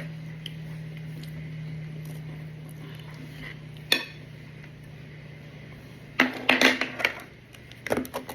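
Dishes and utensils clinking and clattering: a single click about four seconds in, then a burst of clatter in the last two seconds, over a low steady hum.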